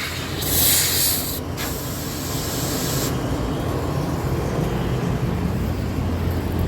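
A short, loud hiss of escaping gas, lasting about a second, then a fainter hiss that stops about three seconds in, over a steady low hum of a running machine.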